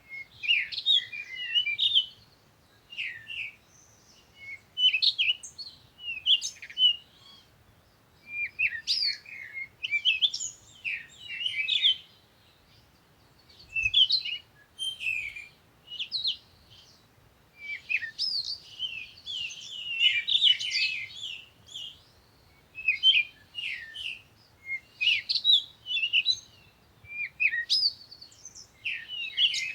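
Small songbirds chirping and twittering in quick clusters every second or two, several calls sometimes overlapping.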